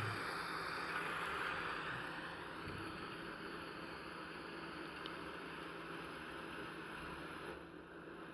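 Steady hiss of rain and running spring water from a nature-sound background, easing slightly about two seconds in.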